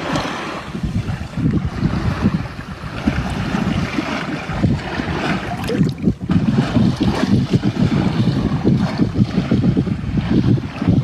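Continuous low, buffeting rumble with rushing noise, like wind on the microphone, dipping briefly about six seconds in.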